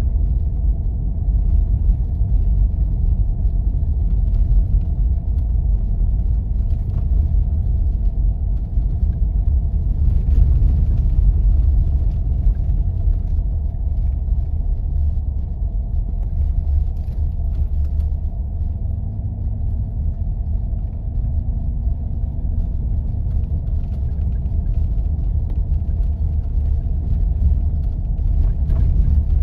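Steady low rumble of a 4x4 driving on snow-covered roads: engine and tyre noise. A faint hum in the drive note rises a little about two-thirds of the way through.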